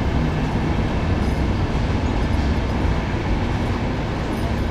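Carriages of the Lev Tolstoy sleeper train rolling slowly along a station platform, a steady rumble of wheels on rails.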